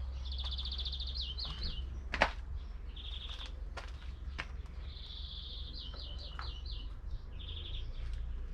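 Songbird singing: repeated high, fast trills, each ending in a few quick down-slurred notes. A steady low rumble runs underneath, and a sharp click sounds about two seconds in.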